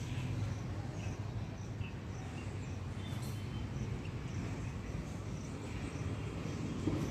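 A car engine idling with a low, steady hum, with faint, regular high chirps about every half second over it.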